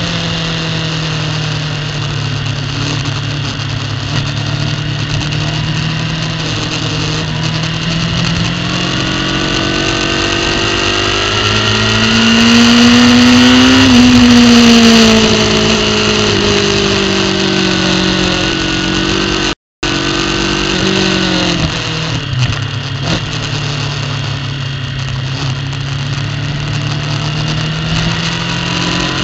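Superbike engine heard from an onboard camera, running at moderate, fairly steady revs. Its pitch climbs to the loudest point about halfway through, then falls back off again. The sound cuts out for a moment a little after that.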